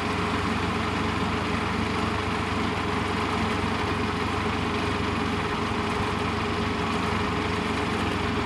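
Engine idling steadily, with an even, unchanging tone.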